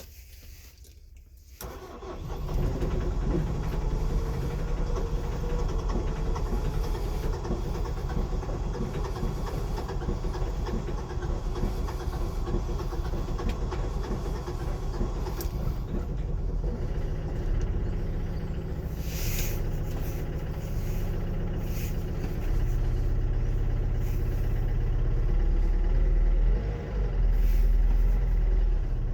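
Opel Vivaro 2.0 CDTI four-cylinder diesel catching about two seconds in on a cold start at −23°C, then idling with steady diesel clatter, growing deeper and louder from about two-thirds of the way through. The start is hampered by glow plugs that don't heat properly, as the owner says.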